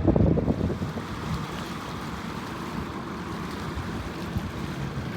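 Wind buffeting the microphone, a gusty low rumble at first that eases within about a second into a steady rushing noise.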